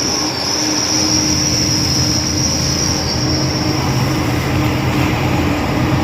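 Heavy mining machine's diesel engine running steadily under load, with a steady high whine over the low rumble.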